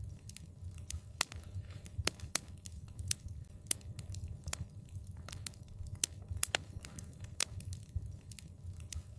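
Wood fire crackling: irregular sharp pops and snaps, several a second, over a low rumble of the burning fire.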